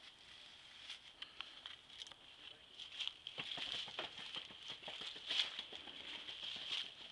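Footsteps crunching through dry fallen leaves: a run of small crackles that becomes denser and louder about three seconds in.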